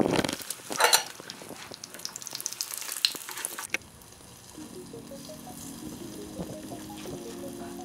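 Breaded cutlets sizzling and crackling in hot oil in a frying pan, loudest in the first few seconds. Soft background music comes in about halfway through.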